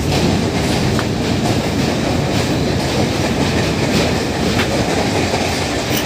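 An express train's coaches running on the rails, heard from an open coach window: a steady wheel-and-rail rumble with scattered clicks as the wheels cross rail joints.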